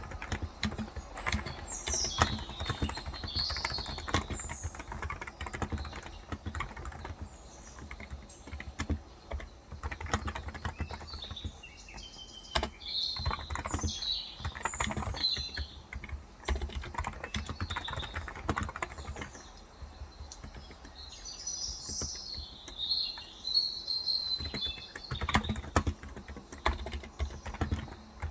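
Typing on a Cox Endeavour 35 g electro-capacitive tenkeyless keyboard, a dense run of keystrokes. Birds chirp in three short spells over the typing.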